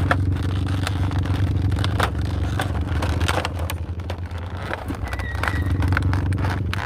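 A steady low mechanical hum under scattered clicks, scrapes and crinkles of hands peeling off tape and handling plastic packaging.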